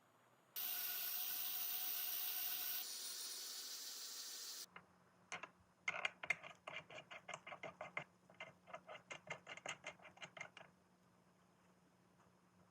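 A loud steady hiss, dropping a little in level partway through, that cuts off abruptly after about four seconds. Then a run of quick, light clicks, about four or five a second, lasting some five seconds with a short pause in the middle.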